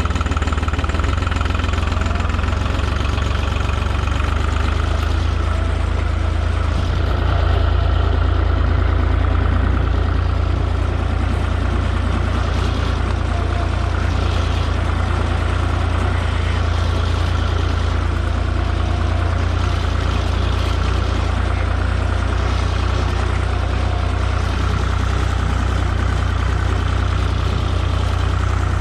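Tractor engine running steadily with a deep, even hum, growing a little louder about seven seconds in for a few seconds.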